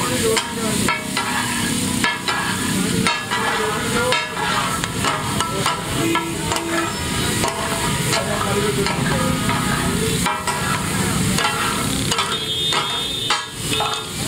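Mutton chops frying on a large flat tawa griddle: a steady sizzle with metal spatulas repeatedly scraping and clacking against the griddle.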